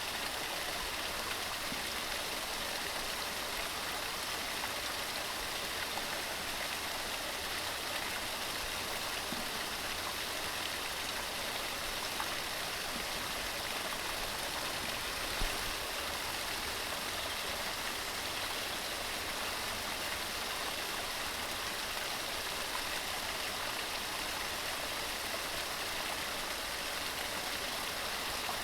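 Waterfall cascading over rocks: a steady, even rush of falling water, mostly hiss, with a single small knock about halfway through.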